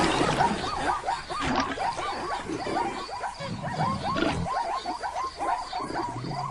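Animal calls: a rapid series of short chirps, about four or five a second, with a deeper low sound about halfway through.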